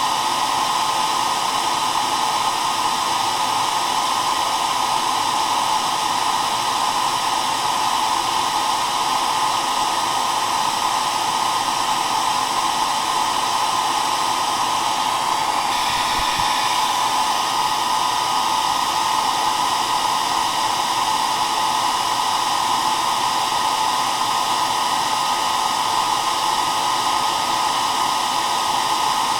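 Hair dryer blowing steadily: a continuous, even rush of air with a motor hum, strongest in the middle register.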